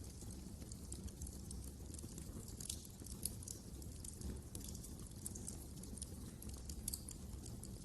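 Fireplace fire crackling: irregular sharp pops and snaps, several a second, over a low, even rumble of the flames.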